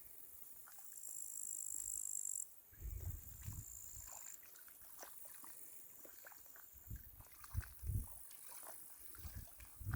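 Crickets chirping in a steady high trill, louder for a second or so before breaking off suddenly and carrying on faintly. Soft low thumps come in a few clusters, about three seconds in and again around seven to eight seconds.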